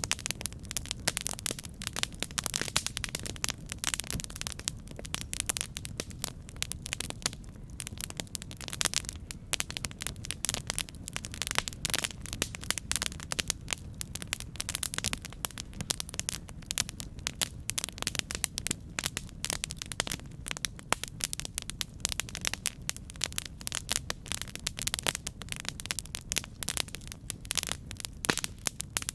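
Campfire burning with dense, irregular crackling and popping over a steady low rumble of the flames.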